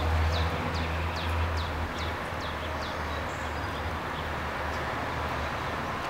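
A bird repeating a short downward chirp about twice a second, over the low rumble of a vehicle engine on the street. The rumble fades out about four seconds in, and the chirping stops shortly before.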